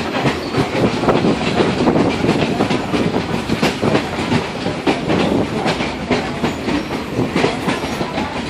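Excursion train's passenger car rolling along the track: a steady rumble with the wheels clacking over rail joints several times a second.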